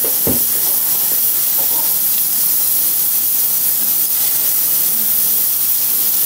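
Chopped tomatoes sizzling in hot oil in a stainless-steel kadai: a steady hiss, with one short knock at the very start.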